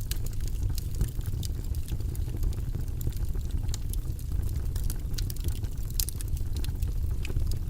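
Wood fire crackling in a fireplace: a steady low rumble of burning with frequent sharp pops and snaps scattered throughout.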